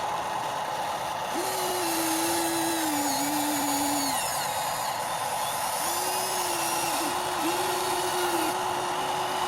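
Small electric motors of radio-controlled construction models whining like a small drill. A steady whine runs throughout, and a second whine comes and goes, wavering and sagging in pitch as the motors are driven.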